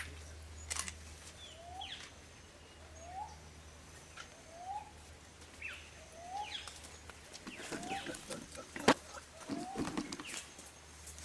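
A bird repeats a short rising whistle about once a second while other birds give higher, falling chirps. Near the end come several clicks and one sharp knock, the loudest sound.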